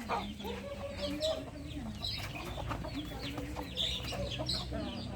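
Chickens clucking and calling: a busy stream of short, high, falling calls over lower, drawn-out clucking notes.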